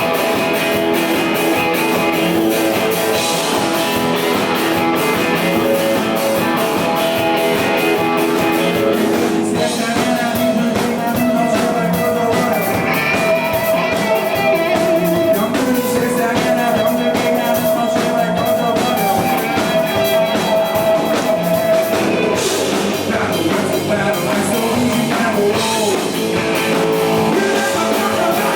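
Rock band playing live with electric guitars and a drum kit, a steady dense wall of sound with long held notes through the middle.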